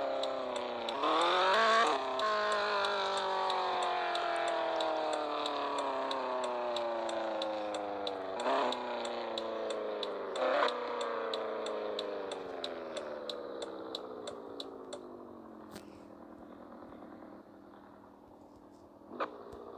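Toyota Supra's 2JZ straight-six engine revs up briefly about a second in, then its pitch falls slowly and steadily as the car slows down, with two short blips in the middle. The engine grows quieter toward the end, and a light ticking repeats about three times a second.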